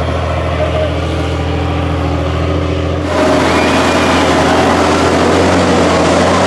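Tatra 6x6 truck's diesel engine running steadily, then revving up and running louder about halfway through.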